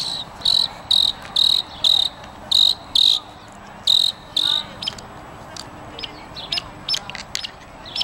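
A songbird calling: a run of about eight short, high notes, roughly two a second, over the first half, then scattered brief chips.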